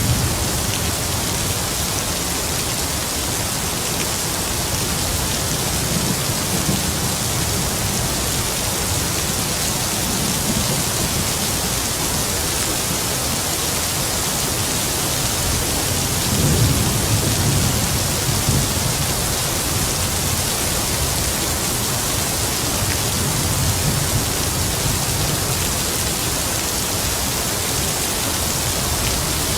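Heavy rain falling steadily, with distant thunder rumbling low several times; the strongest roll comes a little past the middle.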